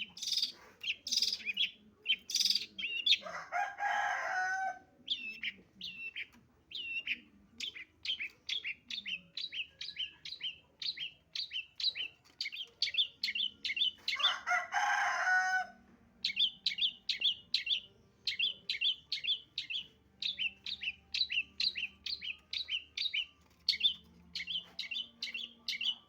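Long-tailed shrike (cendet) calling: a long run of short, sharp, high chirps at about two or three a second. The run is broken twice by a harsh, rasping chatter of about a second and a half, a few seconds in and about halfway through.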